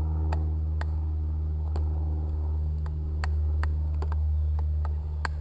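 Hardwood baton knocking on the spine of a knife to drive it through a maple log, a run of short, fairly even knocks about twice a second, over a steady low hum.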